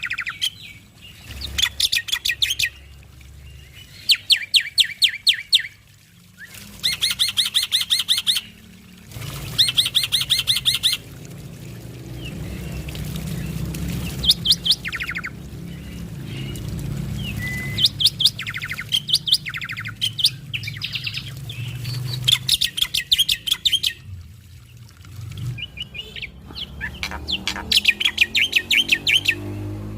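Male black-winged starling (jalak putih) singing in loud bursts of rapid, repeated notes, each burst one to two seconds long with short pauses between. Scattered single notes fill the middle.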